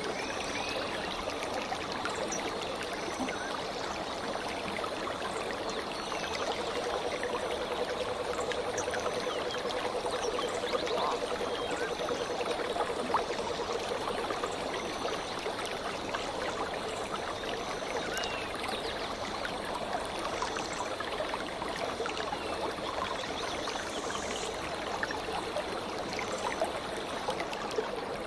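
A stream of water flowing and babbling steadily, with faint high bird chirps here and there above it.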